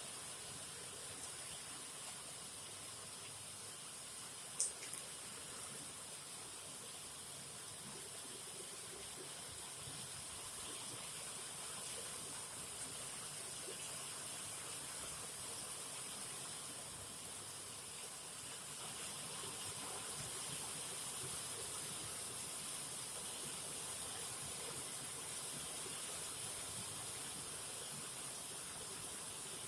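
Rain falling steadily with an even hiss, with one sharp tick about four and a half seconds in.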